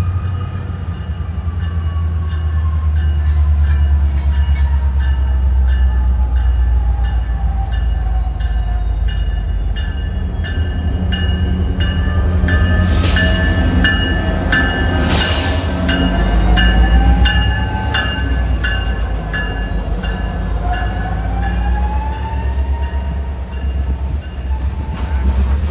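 A train rolling past: a steady deep diesel rumble with an even ticking of wheels over the rails, and wheels squealing in slowly rising and falling tones. Two short hissing bursts come about halfway through.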